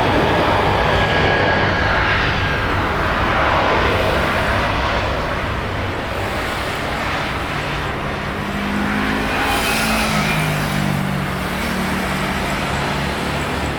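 Jet airliner engine noise, loud and steady, easing slightly partway through. From about eight seconds in, a low droning tone that wavers in pitch joins it.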